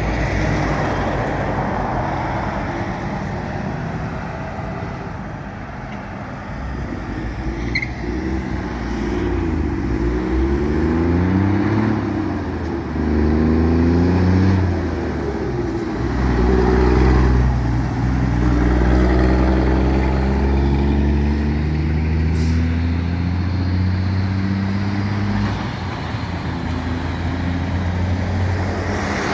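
A truck's engine pulling away and accelerating through the gears: its pitch climbs, drops and climbs again several times over about twenty seconds, loudest in the middle, over steady city traffic noise.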